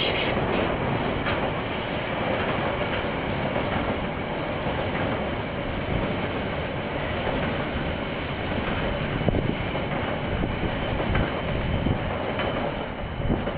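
A KiwiRail train passing, its wagons' wheels rolling steadily on the rails, with a few sharp clanks in the second half.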